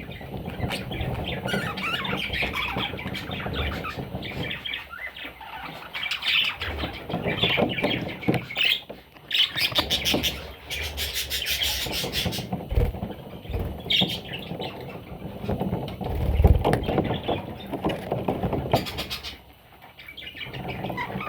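Budgerigars chirping and squawking, busy and continuous, with a harsher stretch of rasping calls about halfway through. Low rumbling and a couple of soft thumps sit underneath.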